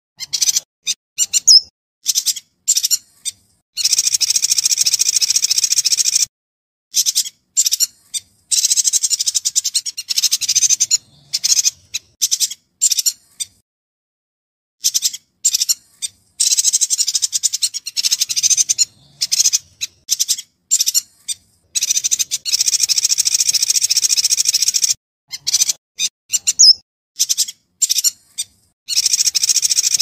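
Yuhina singing a rapid, high-pitched chattering song. It comes in phrases of two to three seconds, with many short chirps in between, and dead silence separates the phrases.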